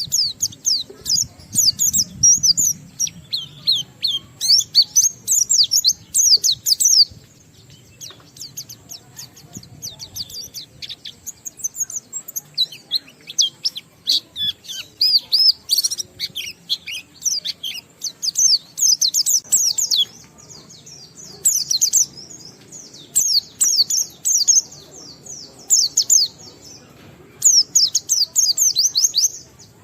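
White-eye (pleci) singing a long run of rapid, thin, high chirping phrases with mixed-in mimicked notes, in bursts of a second or more separated by short pauses.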